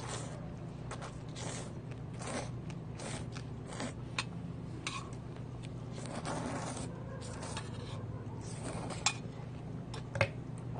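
Someone eating kalguksu noodles: repeated slurps and chewing noises, with a few sharp clinks of utensils on the pot or bowl, one about four seconds in and two near the end, over a steady low hum.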